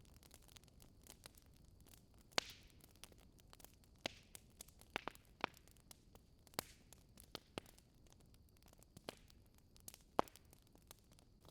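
Wood fire crackling: irregular sharp pops and snaps, a few louder ones trailing a brief hiss, over a faint steady hiss.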